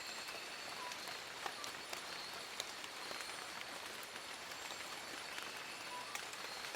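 Steady rain falling on forest leaves: an even hiss with individual drops ticking sharply through it.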